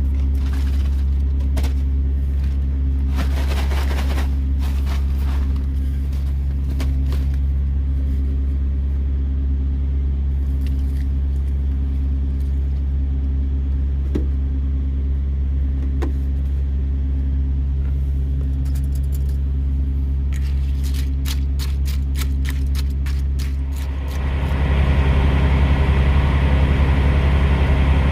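Semi truck under way, heard from the cab: a steady low diesel engine drone with road noise, and light clicks and rattles over it, most of them in a quick run near the end. A few seconds before the end the drone and road noise step up and grow louder.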